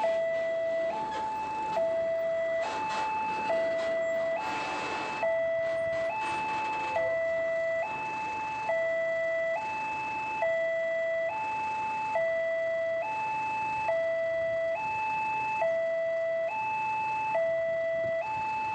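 Electronic level-crossing warning alarm sounding a steady two-tone alternation, low and high notes each held a little under a second, signalling that a train is approaching. A brief swell of broader noise comes about four to five seconds in.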